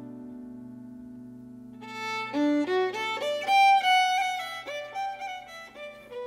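Instrumental Irish traditional music: a low sustained chord held underneath, with a fiddle melody coming in about two seconds in and playing a run of notes over it.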